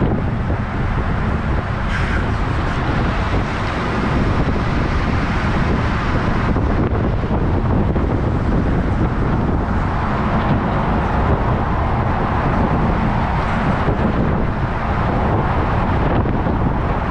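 Truck and trailer driving at speed: steady engine and road noise, with wind buffeting the microphone.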